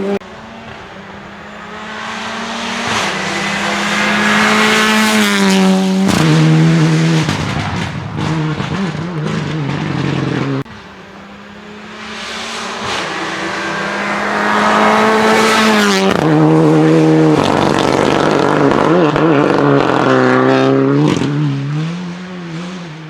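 Renault Clio Rally4 rally car driven flat out, twice: the engine note climbs as it revs hard, then drops in quick steps through downshifts and picks up again as it accelerates away.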